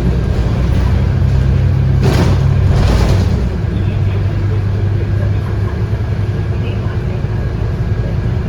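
Scania K230UB bus's 8.9-litre five-cylinder diesel engine running, heard from inside the bus, with a short burst of hiss about two seconds in.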